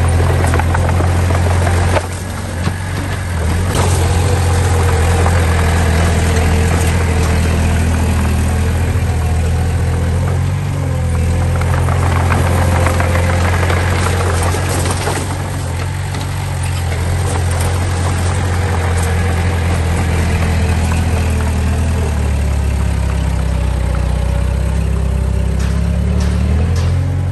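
A heavy earthmoving machine's engine running steadily, a deep continuous hum; the low hum grows heavier in the last few seconds.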